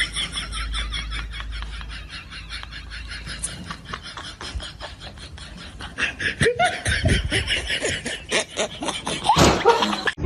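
A person laughing, a long run of quick laughs that grows loudest near the end.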